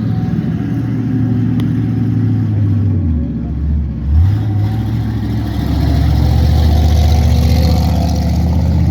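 Monster truck engines running loud and low, easing off about three seconds in, revving sharply about four seconds in, then held at higher, steady revs from about six seconds.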